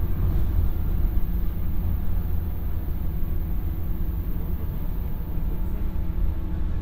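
A JR 115 series electric train running at speed, heard from inside the passenger car: a steady low rumble of wheels and running gear with a constant hum over it.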